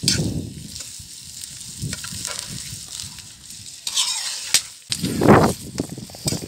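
Carrots and browned onions sizzling in hot oil in a kazan, stirred with a utensil scraping against the pot in irregular strokes, the loudest about five seconds in. This is the stage of plov where the carrots have just gone in on top of the fried onion.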